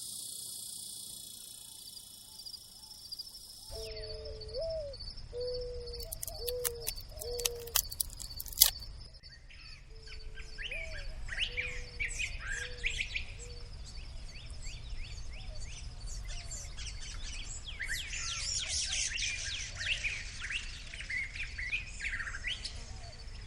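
Wild birds calling. A run of short, low notes with a little upward flick comes first. Then many quick high chirps and trills build up, over a steady high pulsing tone and a low rumble.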